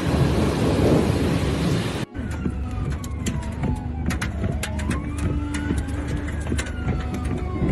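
Heavy rain and thunder for about two seconds, then an abrupt cut to a siren that wails slowly down and up in pitch, about two seconds each way. Scattered sharp clicks or taps sound over the siren.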